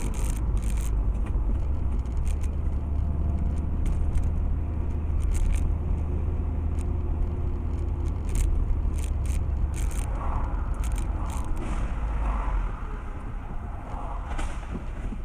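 Car on the move: a steady low engine and road rumble with scattered sharp ticks and rattles. The rumble eases off about three-quarters of the way through.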